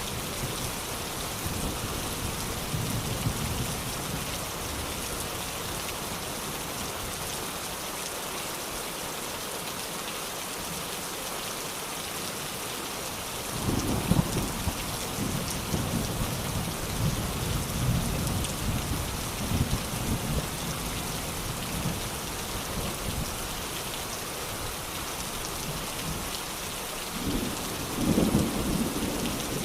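Steady rain hissing throughout, with thunder rumbling from about halfway through and a louder rumble of thunder near the end.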